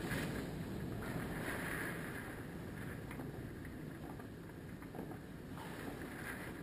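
Hurricane wind gusting: a steady rushing noise that swells and eases, with gusts buffeting the microphone.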